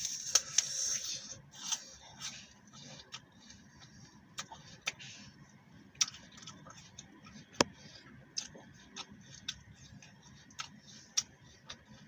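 A bite into a crisp green apple with a burst of crunching in the first second, then chewing heard as many short, sharp, irregular crunches and clicks.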